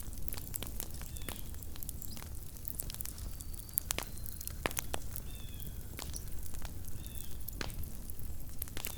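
Wood campfire burning, with irregular sharp pops and crackles over a steady low rumble. A few short, high, falling chirps sound now and then, about four times.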